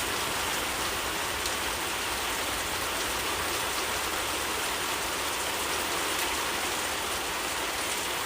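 Steady rain falling, a dense even hiss with scattered drops ticking on leaves and surfaces.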